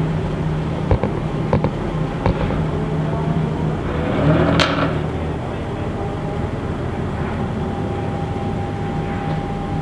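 Jaguar F-Type sports cars idling in a queue, a steady low hum. A few sharp clicks come in the first half, then one sharp snap about halfway through.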